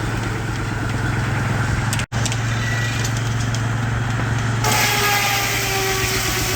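Baker 23-90 Uniflow steam traction engine running steadily under belt to a sawmill, a low hum with a fast even beat. The sound breaks off for an instant about two seconds in. Near the end a louder hiss joins in, with a few tones that slowly fall in pitch.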